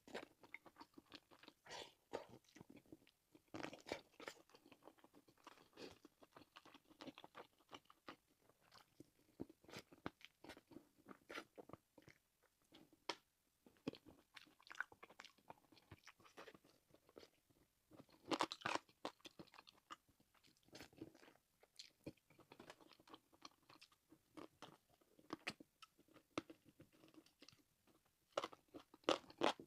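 Close-miked chewing and biting of food: a steady run of short, crunchy mouth clicks, with a few louder bites about two thirds of the way through and again near the end.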